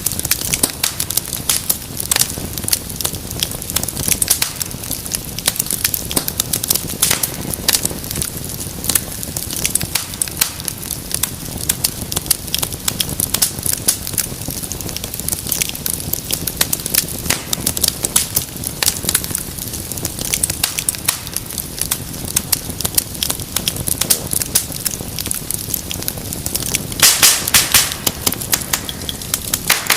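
Wood fire in a fireplace crackling and popping steadily over a low rush of flame, with a brief run of louder pops about 27 seconds in.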